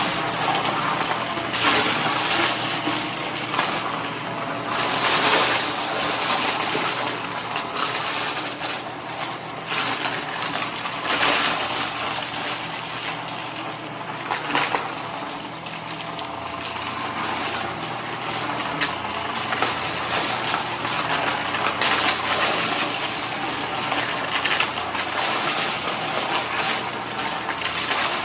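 Vacuum cleaner running steadily while sucking up loose debris, with constant clicking and rattling of hard bits going up the hose.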